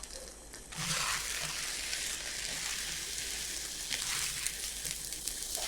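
Dough being stirred in a bowl as flour is mixed into a yogurt, oil and water mixture: a steady rustling, scraping noise that starts about a second in.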